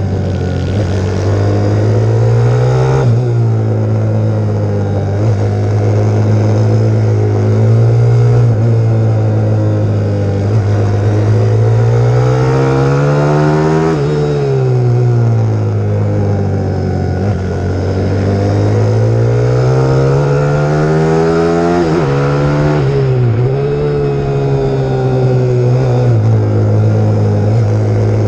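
Pit bike's single-cylinder YX150 four-stroke engine under hard riding, its pitch climbing and falling again and again as the throttle is worked, with sudden drops in revs about three seconds in, halfway through and near the end.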